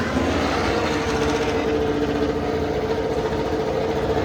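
MotoGP racing motorcycle engines running at steady, high revs, with a held pitch.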